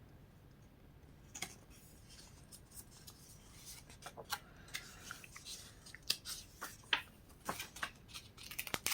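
Paper catalog pages being handled and turned: faint rustles and crinkles, sparse at first and more frequent from about halfway through.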